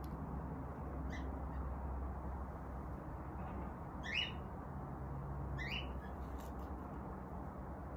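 A bird calling three times, short high calls a few seconds apart, over a faint steady low hum.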